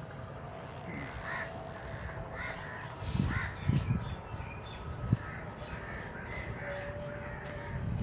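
Birds calling, many short calls repeated one after another, with a few dull low thumps between about three and five seconds in.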